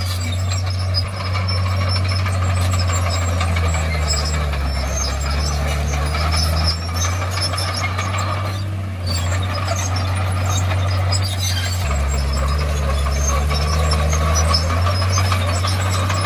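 Komatsu D51PX crawler bulldozer's diesel engine running under work, a steady low drone that deepens twice for a few seconds, about four and twelve seconds in. Over it come short metallic squeaks and clicks, typical of the steel tracks.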